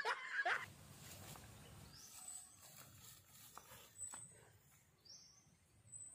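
Faint, short, high chirps from a small bird, one about every two seconds, over quiet outdoor background noise. A voice ends about half a second in.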